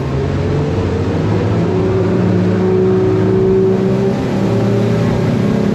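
Jet boat engine running under power as the boat gets under way, its note rising a little through the middle, with a rush of wind and water over it.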